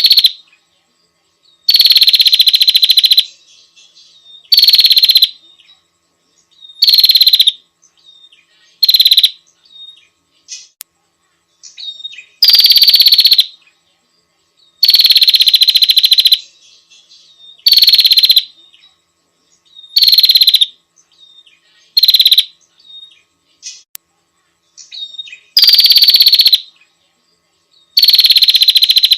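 Female prinia (prenjak) giving her call to a male, the kind used as a lure recording: a loud, harsh buzzing rattle repeated about every two seconds, each burst about half a second to a second and a half long and slightly falling in pitch at its start, with faint short chirps between.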